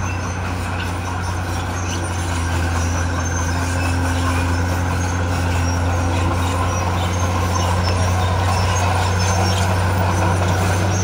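Heavy diesel engine of earthmoving machinery running steadily, a low drone that grows a little louder after about two seconds, with faint clinks and rattles over it.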